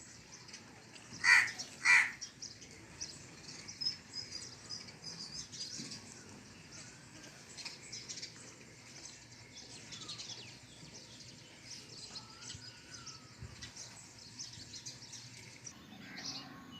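Birds calling: two loud calls about half a second apart a second or so in, then many faint, short, high chirps and tweets.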